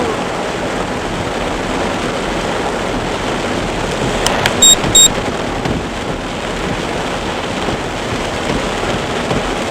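Heavy downpour on a moving car as it drives along a flooded road: a steady hiss of rain and water. About halfway through come two short high electronic beeps, half a second apart, the loudest sounds.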